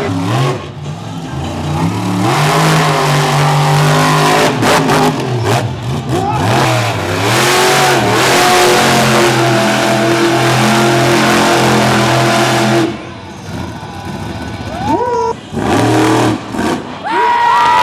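Monster truck engine revving hard. About two seconds in it climbs to a steady high-rev run lasting about ten seconds, then drops off sharply and comes back in short revs near the end.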